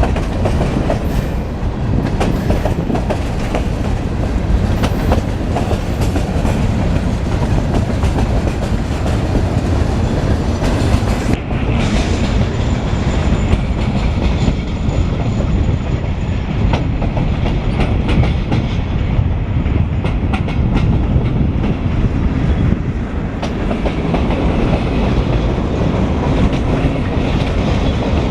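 Train rolling past at close range, its railcar wheels clacking over the rail joints in a steady stream of clicks over a loud rumble.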